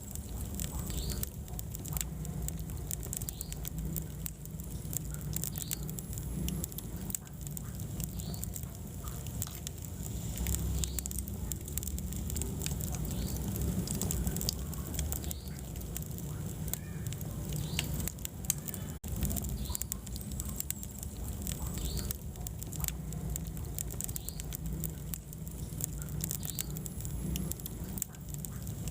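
Wood fire burning in a fireplace: steady low roar of the flames with frequent small crackles and pops, and now and then a brief squeak or whistle from the burning wood. A momentary break in the sound about two-thirds through.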